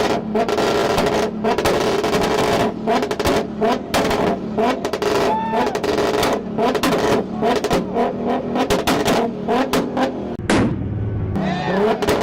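Car engine held on a two-step launch limiter: a steady engine note broken by rapid, irregular exhaust pops and bangs for about ten seconds. Near the end it drops away briefly before another rev rises.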